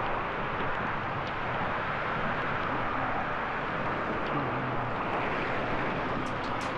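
Steady rushing noise of riding a bicycle in heavy rain: wind over the microphone and the hiss of the wet road.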